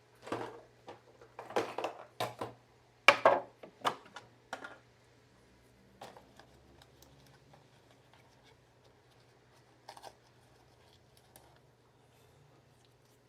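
Small hand tools clicking and scraping against a workbench and a circuit board while connector contacts are being cleaned, a quick run of sharp clicks in the first few seconds, then a few faint ticks.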